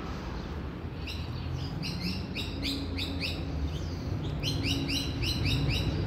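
A small songbird chirping in two quick runs of short, repeated high notes, about four or five a second, with a brief pause between the runs.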